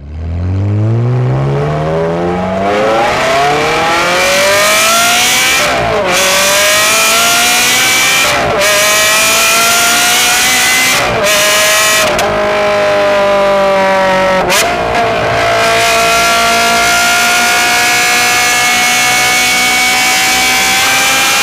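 Ferrari 360 Modena's 3.6-litre V8 through an aftermarket exhaust, picked up by a microphone outside at the rear, accelerating from low revs with the pitch rising. Several quick gearshifts cut in, each a brief break with the pitch dropping. In the last few seconds it runs on steadily at cruising revs.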